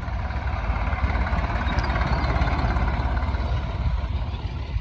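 Vintage tractor engine running with a steady low rumble.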